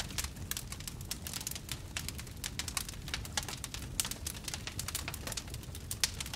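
Wood fire in a fireplace crackling and popping: a dense run of small sharp snaps over a low steady rumble, with a couple of louder pops about four and six seconds in.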